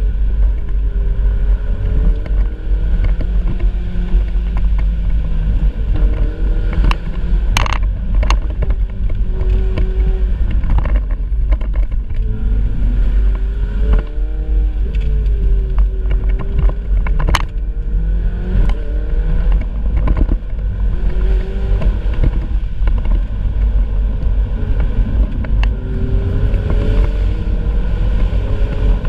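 Ferrari 488 Spider's twin-turbo V8 running as the car drives, its note rising and falling as the revs change, over a constant low rumble. A few sharp clicks come about seven to eight seconds in and again near seventeen seconds.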